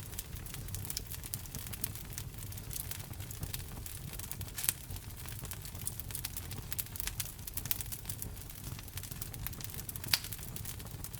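Wood fire crackling in a fireplace: a steady run of small crackles over a low rumble, with two sharper pops, one about halfway through and one near the end.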